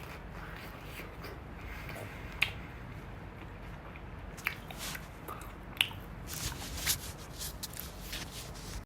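Scattered faint clicks and taps over a low steady hum, with no speech.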